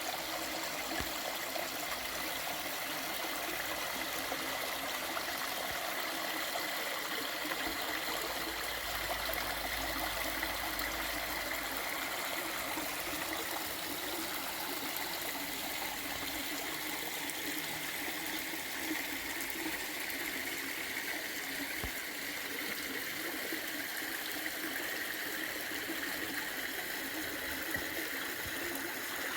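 A small creek flowing steadily, with an even, unbroken rush and trickle of water.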